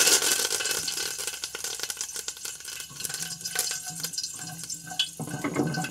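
Curry leaves and mustard seeds spluttering and crackling in hot oil in a kadhai, starting loud as the leaves hit the oil and settling into a steady crackle. A spatula stirs them through the oil.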